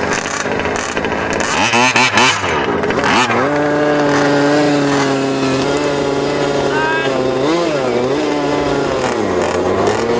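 Small two-stroke engine of a gas-powered 1/5-scale RC truck, revved in quick blips about two seconds in, then held at high revs for several seconds, dropping briefly near the end before climbing again.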